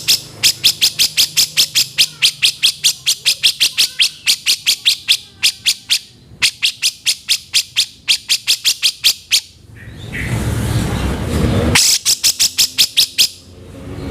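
Cucak jenggot (grey-cheeked bulbul) giving long runs of rapid, harsh rasping notes, about six or seven a second, broken by short pauses. Near the end there is about two seconds of rough noise, then another quick run of the same notes.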